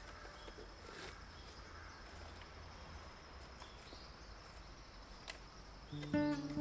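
Faint outdoor ambience: a low rumble with an even hiss and a few soft clicks. Music with sustained tones comes in near the end.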